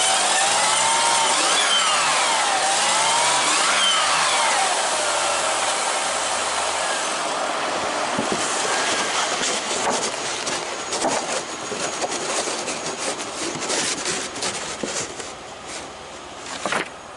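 A 2001 Ford Escape's 3.0-litre 24-valve V6 being revved twice, its pitch rising and falling each time, then dropping back to a steady run. From about halfway, a run of clicks and knocks sounds over the running engine as its sound fades.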